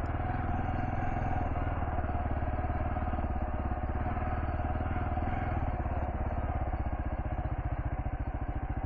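Kawasaki KLR650's single-cylinder engine running at low speed while the bike is ridden off-road. Its firing pulses become more distinct and uneven in the second half, as the revs drop.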